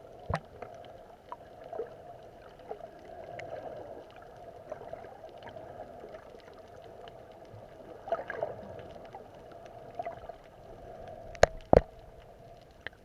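Water gurgling with a steady low hum and scattered small clicks, and two sharp knocks close together near the end.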